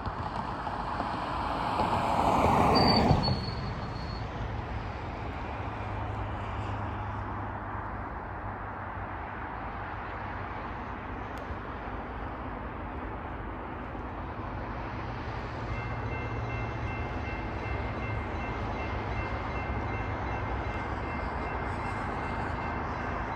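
Intermodal freight train passing: the lead diesel locomotive goes by loudest about three seconds in, followed by the steady rumble of the cars rolling past. Faint high-pitched wheel squeal joins in about two-thirds of the way through.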